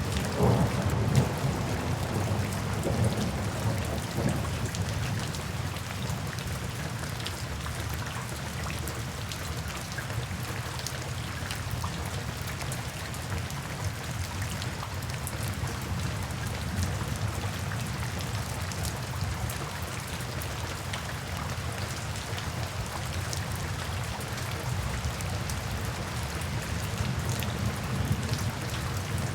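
Steady rain, with many individual drops ticking on a surface over a continuous hiss. A low rumble of thunder dies away over the first few seconds.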